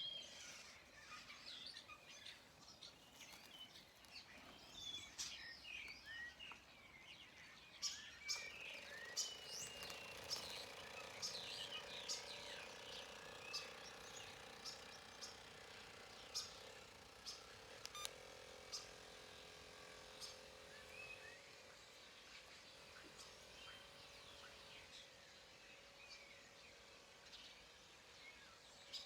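Birds chirping. From about eight seconds in, a faint steady motor hum joins them, from the radio-controlled model fishing boat.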